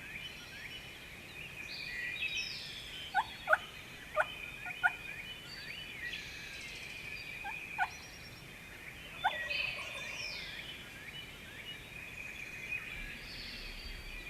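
Eastern wild turkeys gobbling at a distance, several short gobbles in a burst a few seconds in and more near the middle, over a dawn chorus of smaller birds singing.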